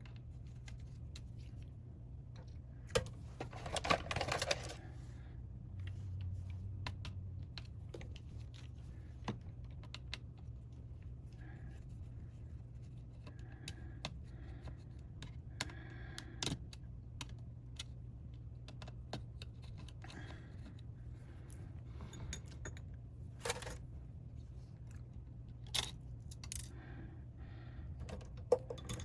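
Scattered small clicks, taps and light metallic rattles of hand tools and small parts during laptop disassembly, with a burst of rattling about three to four seconds in, over a faint low hum.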